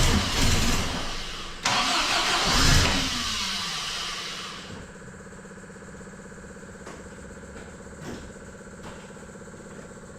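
Supercharged MGB four-cylinder engine being cranked and catching roughly on a hard first start. After a few seconds it dies away, leaving only a quieter steady hum.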